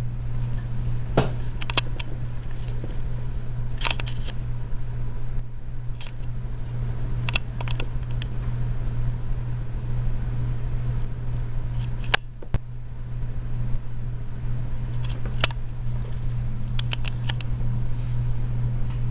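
Steady low hum with a faint high whine, and a few short faint clicks and ticks scattered through.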